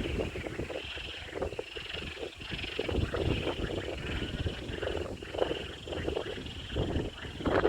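Wind gusting and buffeting the microphone, with a chorus of frogs croaking in a steady pulsing band over it.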